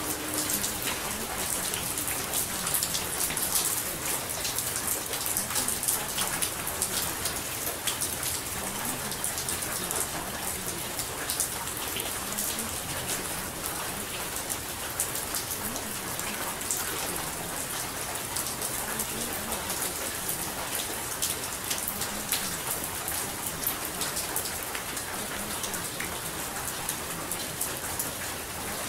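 Steady rain falling, a continuous hiss with many small, sharp drop clicks.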